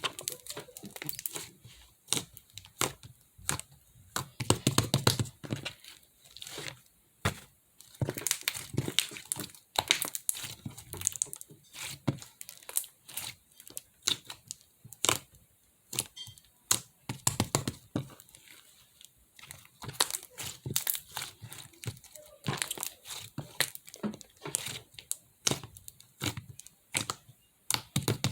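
Three colours of slime being mixed by hand: a fast, uneven run of sticky clicks, pops and crackles as the slime is pressed, folded and pulled apart.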